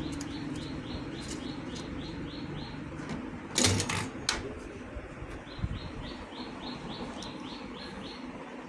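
Sharp clicks and knocks, the loudest about halfway through, from fitting a new switch into a baking oven, with a low thump shortly after. Two runs of short high chirps, about three to four a second, repeat near the start and again in the second half.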